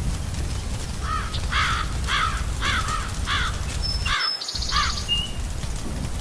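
A crow cawing about seven times in a row, roughly one caw every half second, over a steady low background noise.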